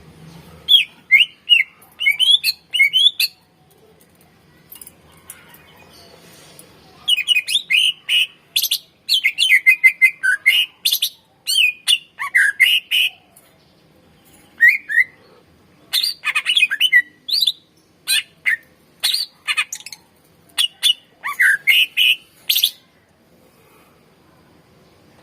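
Cucak ijo (greater green leafbird) singing in loud phrases of quick chirps and whistled notes, each phrase a few seconds long, with short pauses between them.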